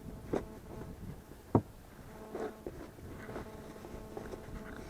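A few sharp knocks and clicks of picnic gear being handled, the loudest about one and a half seconds in, over a faint buzz of flying insects.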